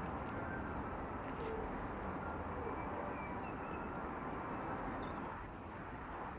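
Steady rumble of an aircraft passing overhead, easing slightly near the end, with a few faint bird calls.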